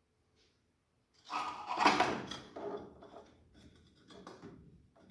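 A sudden loud scraping rattle about a second in, dying away into lighter, uneven clatter, like a part being pulled and handled.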